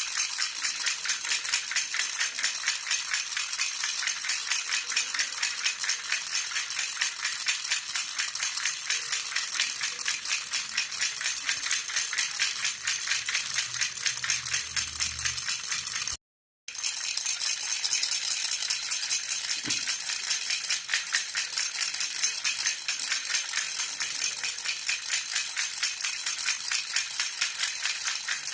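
Baby rattle (jhunjhuna) shaken rapidly and steadily in a continuous bright jingle. It drops out for a split second about sixteen seconds in, then carries on.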